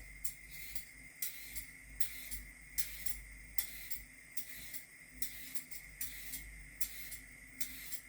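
Carrots being worked by hand with a kitchen blade: short scraping strokes, about two a second.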